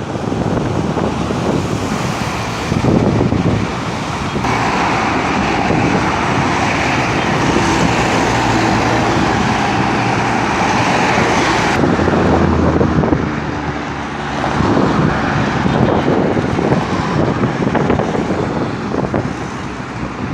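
Street traffic noise: cars and engines running and passing, with the sound changing abruptly about four and twelve seconds in.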